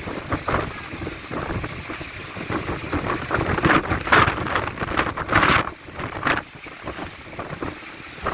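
Strong wind buffeting the microphone in irregular gusts, loudest about four and five and a half seconds in.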